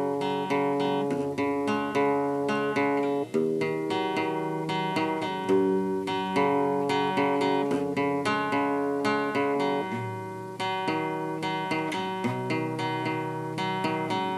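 Acoustic guitar intro: plucked notes picked in a steady run of chords, with no singing yet.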